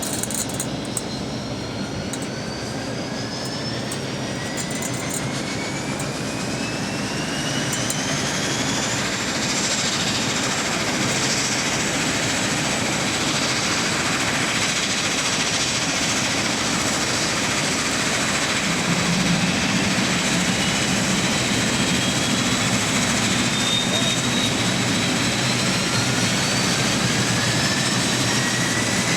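De Havilland Dash 8-100's Pratt & Whitney Canada PW100-series turboprop engine starting: the turbine whine rises steadily in pitch and loudness for about nine seconds, then holds steady as the engine settles, with a deep rumble underneath. Near the end a second rising whine begins as another engine spools up.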